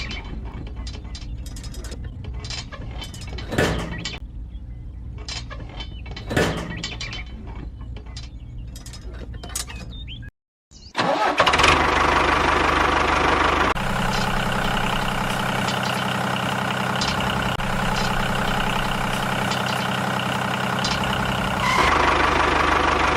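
Engine-like running of a mini tractor. It starts as a quiet hum with scattered clicks and knocks, then after a short break becomes a much louder steady running that shifts in tone about two-thirds of the way through and again near the end.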